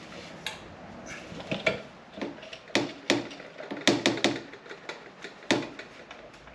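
Irregular clunks and clicks of metal parts being handled as a motorcycle exhaust is taken off, with a cluster of sharper knocks about four seconds in.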